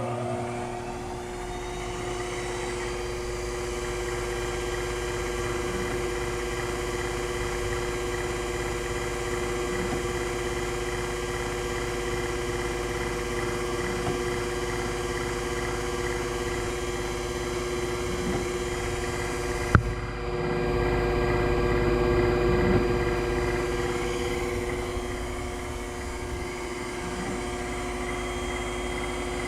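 Old CNC lathe running with a steady motor hum and whine. A sharp click comes about twenty seconds in, then the sound swells louder for a few seconds before settling back.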